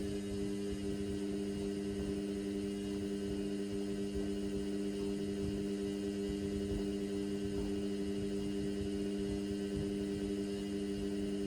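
Indesit washing machine's drain pump humming steadily at one even pitch, with a low rumble beneath it.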